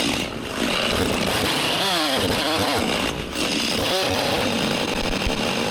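Chainsaw running at full throttle while cutting into a large tree trunk. Its pitch sags and recovers as the chain loads up in the cut, and it eases off briefly twice.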